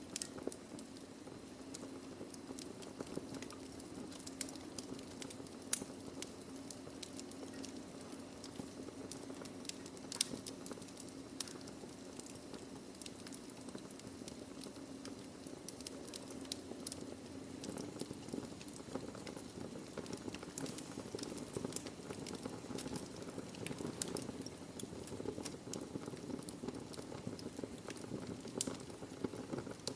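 Wood fire burning in a fireplace: logs crackling with frequent small pops and a few sharper snaps, the sharpest about six seconds in, over a steady low hiss.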